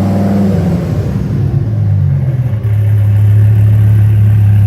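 Hennessey-modified Dodge Viper V10 running at low speed as the car is pulled out. Its revs drop about a second in, then settle into a steady, deep, low-rpm note.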